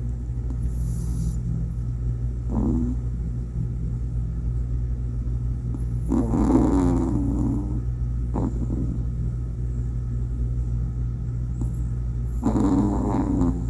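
Toy poodle puppy snoring in its sleep: two longer snores about six seconds apart, each lasting about a second, with brief fainter ones between, over a steady low hum.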